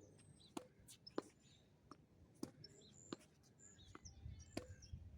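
Tennis balls struck by racquets and bouncing during a rally, a sharp pop every half second to a second, often in pairs. Small birds chirp in the background.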